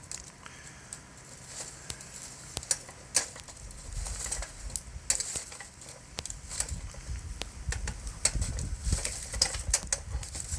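Wood campfire crackling, with irregular sharp pops and snaps of burning wood. A low rumble builds from about four seconds in.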